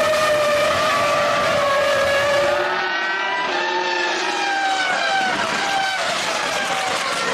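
Formula One cars' high-revving 3.0-litre V10 engines at racing speed. The engine notes slide up and down in pitch with throttle and gear changes, and from about three seconds in several engine notes overlap.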